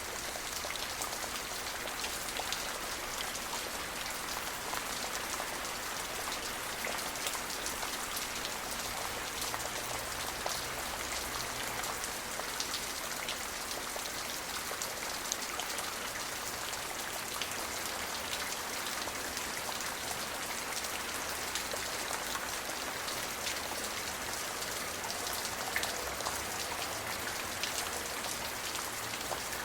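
Steady rain falling, with many individual drops pattering close by against an even hiss of rainfall.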